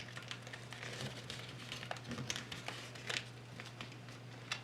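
Paper rustling and crinkling in short, scattered crackles as a sheet is handled, folded and creased, over a faint steady low hum.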